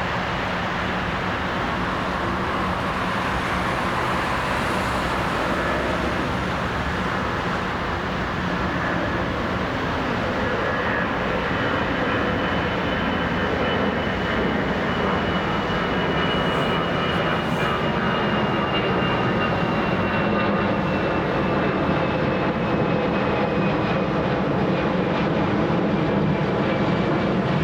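Airliner engines running as a plane passes: a steady rumble that grows slowly louder, with a thin high whine that slides gradually down in pitch through the second half.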